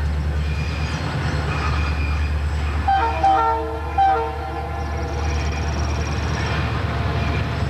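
Diesel locomotive running with a steady low engine rumble, its air horn sounding a chord of several notes in a few short blasts about three to four and a half seconds in.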